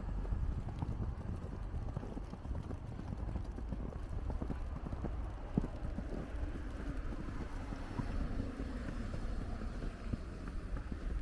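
Footsteps in snow: a steady run of small, irregular crunches, with a low wind rumble on the microphone.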